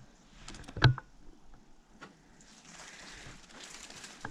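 Footsteps through undergrowth: a few clicks and one sharp snap just under a second in, then steady rustling.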